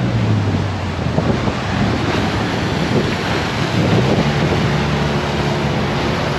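Wind buffeting the microphone over a steady rush of sea surf, with a low engine hum running underneath.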